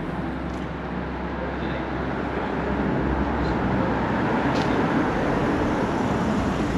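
A road vehicle passing on the street, its engine and tyre noise swelling over the first three seconds and then holding steady.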